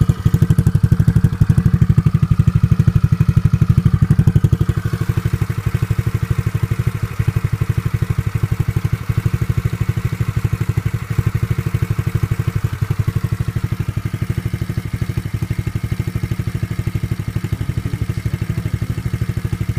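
Peace Sports 110cc pit bike's single-cylinder four-stroke engine idling steadily, with rapid, even exhaust pulses.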